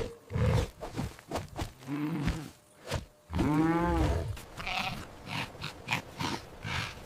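Farm animal calls: two drawn-out calls that rise and fall in pitch, about two seconds in and three and a half seconds in, with short rough noises between them.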